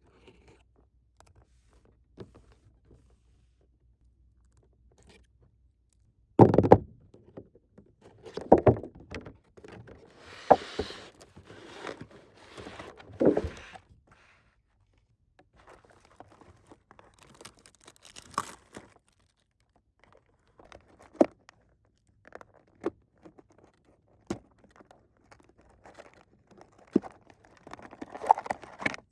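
Plastic toy pieces and packaging being handled: a quiet start, then scattered knocks, scrapes and sharp clicks, with a stretch of crinkling about ten seconds in.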